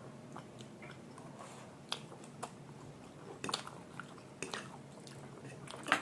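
A person chewing a mouthful of chowmein and momos close to the microphone, with scattered sharp wet mouth clicks, about one every second.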